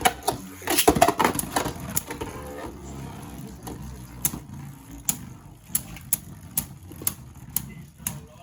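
Sharp clicks repeating evenly about twice a second over a low rumble, after a few seconds of voices at the start.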